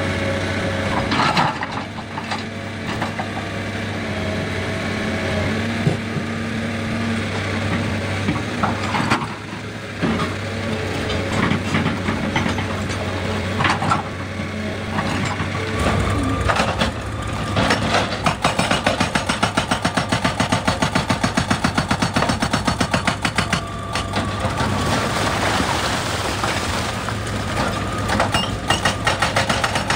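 Excavator's diesel engine running steadily, with scattered sharp knocks of rock. From about halfway a fast, even pounding of about five blows a second sets in, as the machine works at breaking the rock.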